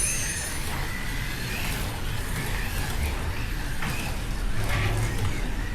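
Slot cars lapping a track: the small electric motors whine, rising and falling in pitch as they brake and accelerate through the corners, over a steady running noise.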